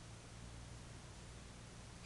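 Near silence: steady background hiss with a low hum, between bird calls.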